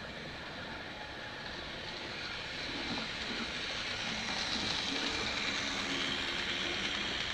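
H0-scale model train running along the track, its motor hum and wheel rumble growing louder from about two seconds in as it approaches.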